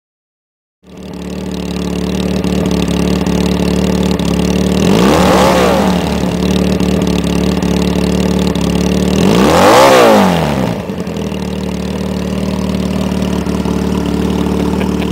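Motorcycle engines running at a bike meet: a steady idle starts about a second in, and two motorcycles pass close by, swelling louder and fading, about five and ten seconds in.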